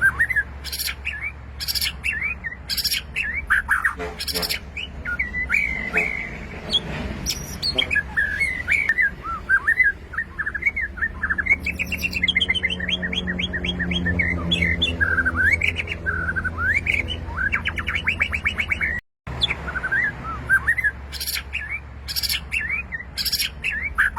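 White-rumped shama singing a varied song of whistled notes and sliding calls, broken by sharp high notes and fast rattling trills around the middle. A steady low hum runs underneath, and the sound cuts out for a moment near the end.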